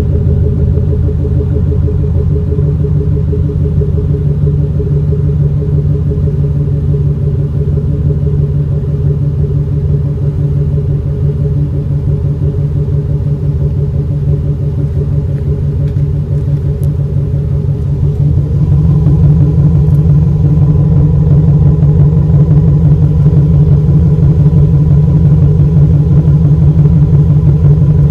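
2007 Pontiac Grand Prix GXP's 5.3-litre LS4 V8 idling through muffler-deleted exhaust, a steady low rumble. About two-thirds of the way through it gets louder and slightly higher in pitch.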